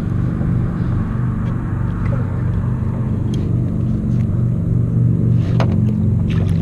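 A steady low mechanical hum with several pitches held level throughout. Two short sharp knocks or splashes come near the end.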